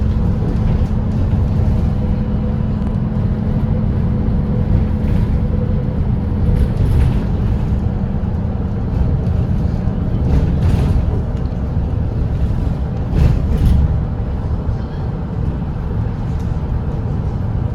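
Volvo B8RLE double-decker bus's diesel engine running at highway cruising speed: a steady low drone with a hum that fades about a third of the way through. A few short knocks or rattles come through, from the bus going over the road.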